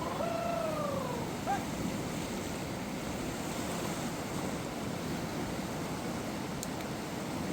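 Rushing water of a river in flood, a steady rush. A short falling call is heard in the first second.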